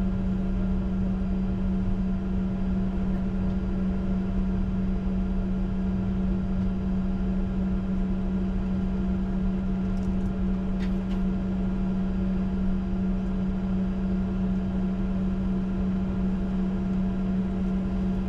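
Steady cockpit drone of a Bombardier Challenger 605 standing with its engines idling: an unchanging hum with a strong low tone and rumble underneath. A couple of faint clicks about ten seconds in.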